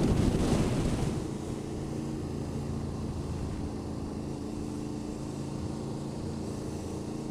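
Motorcycle engine running at steady revs while riding, with a rush of wind noise that dies down about a second in.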